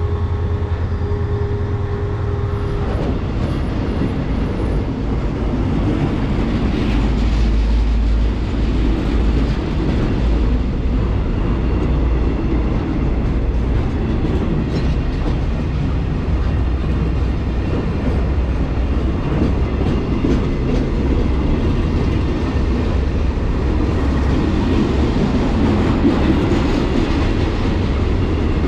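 Diesel train running close by on the line: a loud, steady low rumble of engine and wheels on the rails, with the wheels clicking over rail joints. A steady tone stops about three seconds in.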